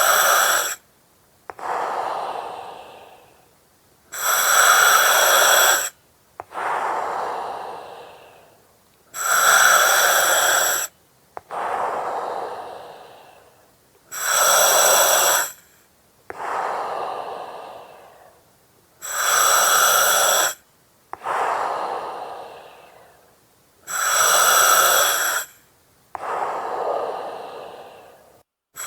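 A person breathing slowly and steadily through an oxygen mask, about six breaths, one every five seconds or so. Each breath opens with a sharp hiss from the mask regulator, carrying whistling tones and cutting off abruptly, followed by a softer breath that trails away.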